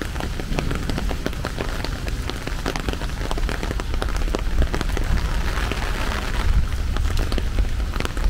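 Rain falling steadily, with many separate drops ticking sharply close by over a low rumble.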